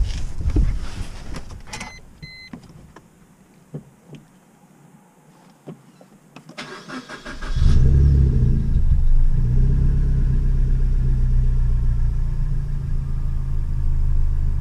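Suzuki Swift Sport (ZC32S) M16A four-cylinder engine cranked and catching on a cold start about seven and a half seconds in, then idling steadily without the hunting caused by the split rubber air intake pipe that has just been replaced. A few clicks and two short beeps come before it, in the first two seconds.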